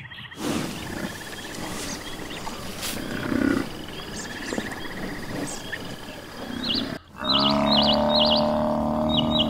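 American bison bellowing: a long, steady, low roar begins about seven seconds in and is the loudest sound, with small birds chirping repeatedly over it. Before it there is a quieter outdoor background with a few faint low sounds.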